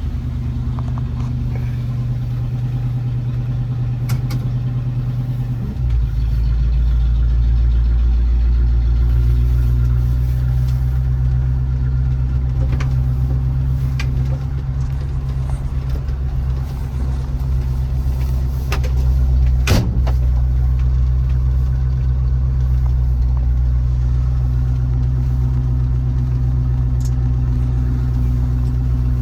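The Willys wagon's carbureted engine running steadily while still cold, on its Edelbrock carburetor's automatic choke, heard from inside the vehicle. Its low rumble grows louder about six seconds in. A few sharp clicks come through, the strongest about twenty seconds in.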